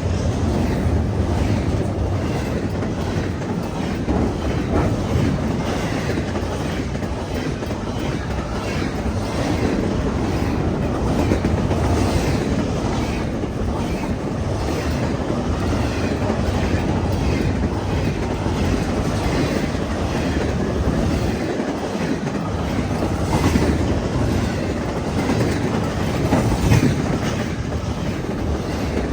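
A long freight train of double-stack well cars rolling past at speed: a steady heavy rumble with the wheels clacking in a regular rhythm.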